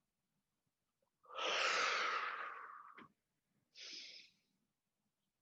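A person breathing deeply and audibly, close to the microphone, during a slow tai chi breathing exercise: one long breath starting about a second in and fading away over two seconds, then a shorter breath near the end.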